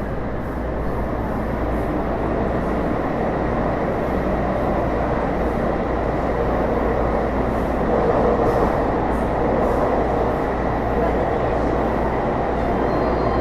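Taipei Metro Series C301 train, refitted with Bombardier IGBT-VVVF traction, running, heard from inside the car. A steady wheel-and-rail rumble carries a thin steady whine and grows slowly louder. Near the end, faint high tones come in.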